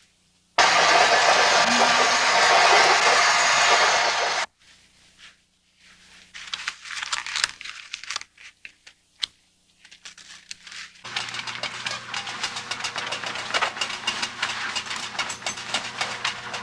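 Shower water spraying: a loud, steady hiss that cuts off suddenly about four and a half seconds in. It comes back quieter and more broken, and from about eleven seconds it runs steadily again with many small clicks over a low hum.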